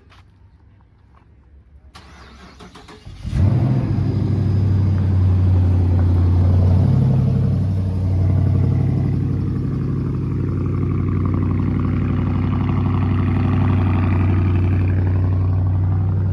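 Dodge Charger R/T Daytona's 5.7-litre HEMI V8 cold start: the starter cranks for about a second, the engine catches about three seconds in with a loud burst, then settles into a steady, fast cold idle.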